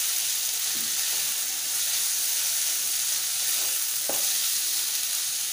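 Chopped tomato and onion masala sizzling in hot oil in a ceramic-coated kadai, stirred with a wooden spatula. The sizzle is a steady hiss.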